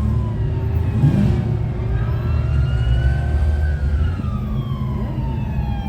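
Ambulance siren wailing, its pitch falling slowly and then starting to rise again near the end, over a steady low rumble of vehicle engines in traffic.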